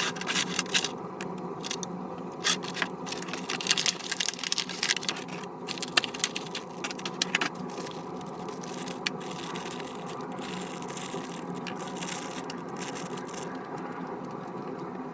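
Hands handling the toy RC helicopter and its packaging: scraping, rattling and crackling, with many sharp clicks over the first nine seconds or so, then steadier, over a constant hum.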